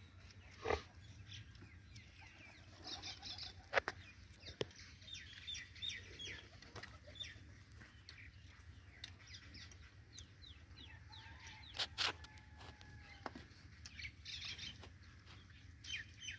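Birds chirping: clusters of short, high, falling calls repeated throughout, over a steady low rumble, with a few sharp knocks.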